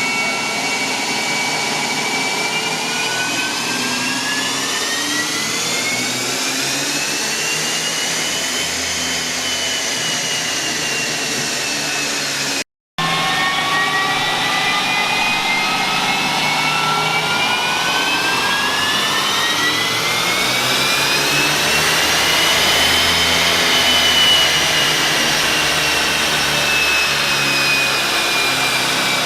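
A car engine running on a chassis dyno through two wide-open pulls, separated by a cut about halfway. Each time its pitch climbs steadily for several seconds and then falls away as it decelerates, with a whine over the engine note.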